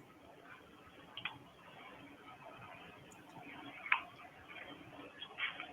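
Faint hiss on a telephone line with scattered faint clicks, the loudest about four seconds in.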